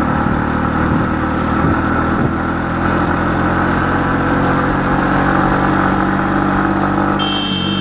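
A motor vehicle's engine running steadily, with road noise; a high steady tone joins near the end.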